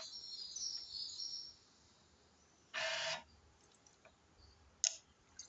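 Birds chirping in the background for the first second and a half, then a short loud hiss about three seconds in and a sharp click near the end.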